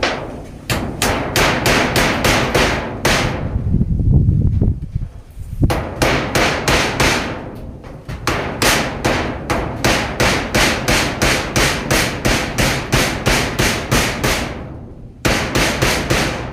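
Rapid, evenly paced blows of a hand tool striking, about three a second, in several runs broken by short pauses.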